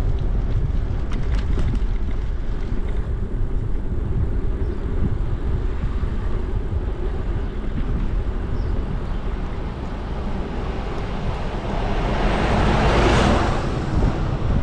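Wind buffeting the microphone of a moving bicycle, a steady low rumble. About twelve seconds in a passing vehicle swells up and fades away over roughly two seconds.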